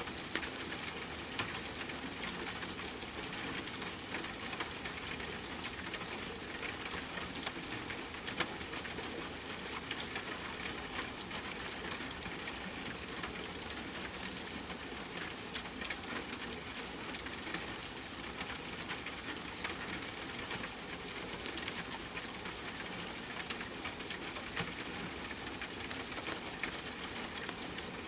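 Steady rain hiss mixed with a wood fire crackling, its sharp pops and snaps scattered irregularly throughout.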